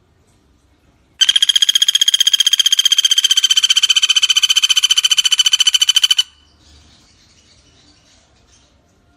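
Pelatuk bawang (common flameback woodpecker) giving one long, rapid rattling trill of about five seconds, starting about a second in and stopping abruptly. It is followed by a faint insect background.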